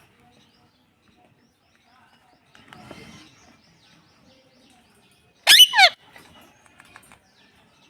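Pet parrot giving one loud, shrill call with a steeply falling pitch in two quick pulses, about five and a half seconds in, after a soft, faint sound a few seconds earlier.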